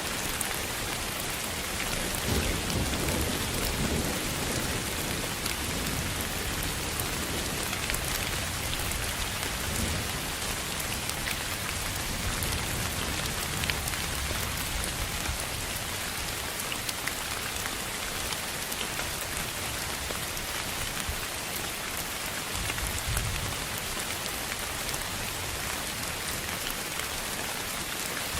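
Steady, even noise of a sleep-sound track sold as pink noise, sounding much like steady rain, with fine scattered ticks and a few soft low rumbles about two to four seconds in and again near the end.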